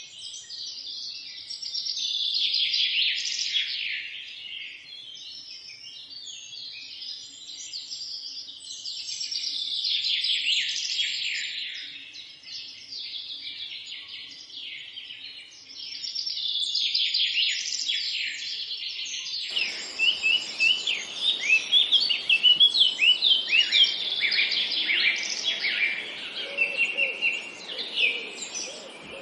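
A chorus of songbirds chirping and trilling together, swelling and fading in waves. About two-thirds of the way through, a steady background hiss comes in abruptly, and the chirps become sharper and more separate.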